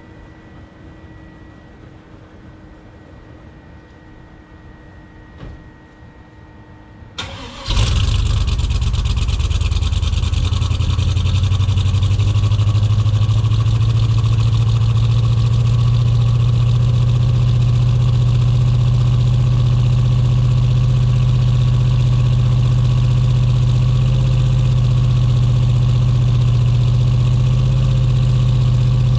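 A carbureted 350 small-block V8 swapped into a Chevrolet S10 pickup fires and catches about seven seconds in on a cold start, then runs steadily and loud. It is a bit rough because it is not yet fully tuned.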